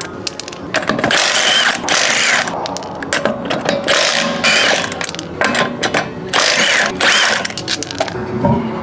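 Wrench working a car's wheel lug nuts, a run of short loud mechanical ratcheting bursts.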